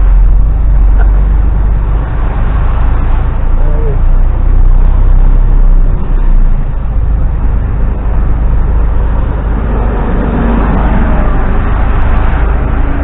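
Loaded HGV lorry's diesel engine and road noise heard from inside the cab: a loud, steady low rumble.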